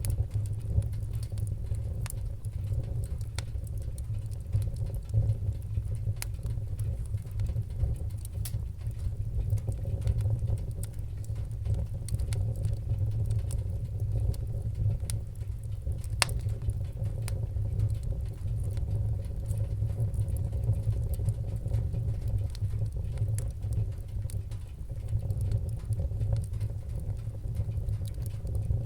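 Wood-burning fire crackling: scattered small sharp pops and snaps over a steady low rumble, with one louder pop about halfway through.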